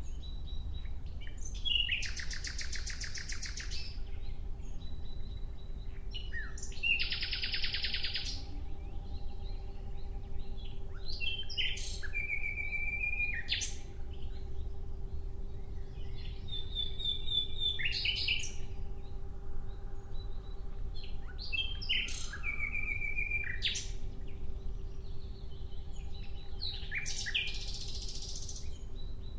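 Nightingale singing: separate phrases a few seconds long, made of rapid rattling trills and whistled notes, with short pauses between them. A faint steady hum and low rumble run underneath.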